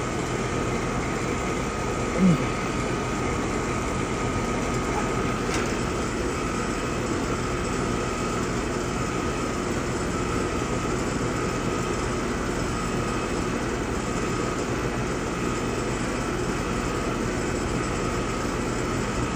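Carrier heat pump outdoor unit running steadily, its condenser fan and compressor giving a constant hum with a steady mid-pitched tone; the compressor spins without compressing, diagnosed as a mechanical compressor failure. A brief knock about two seconds in.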